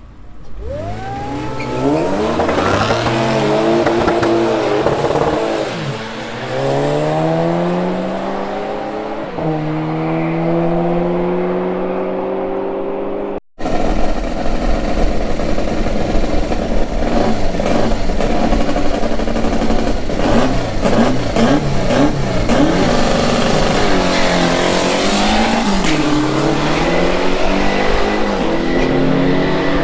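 Car engine accelerating hard, its pitch climbing and dropping back several times as it shifts up through the gears. A cut about halfway through, then more loud engine running with its pitch rising and falling.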